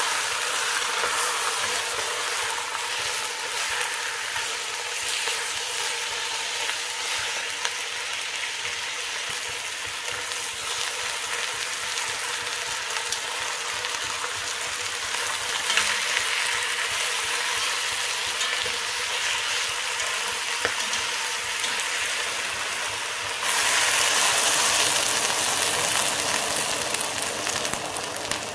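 Chicken pieces and onion sizzling in hot oil in a pot, with now and then the scrape of a wooden spatula and tongs turning them. About 23 seconds in, water poured from a kettle hits the hot pot and the sizzle jumps to a louder rushing hiss.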